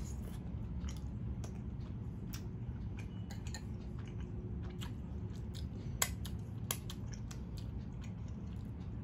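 A person chewing a mouthful of momo dumpling, with many small wet mouth clicks and smacks, one sharper click about six seconds in, over a steady low background noise.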